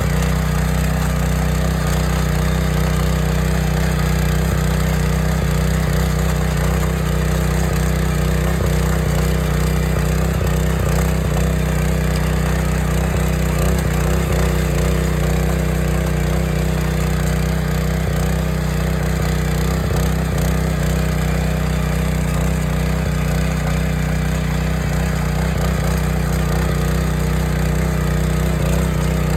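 Small farm tractor's engine running steadily at a constant speed.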